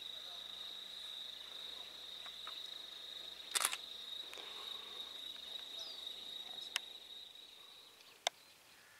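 An insect's steady, high-pitched trill that fades out near the end, broken by a short cluster of sharp clicks about three and a half seconds in and two single clicks later.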